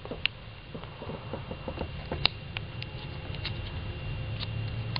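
Small irregular clicks and ticks of handling as a soft ear cap is worked onto an Apple in-ear headphone, over a low rumble of fingers moving.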